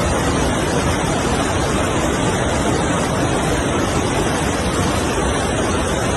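Floodwater rushing in a loud, steady, unbroken wash of noise.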